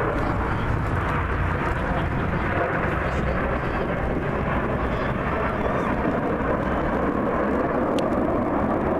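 Aircraft engine noise, a steady rumble.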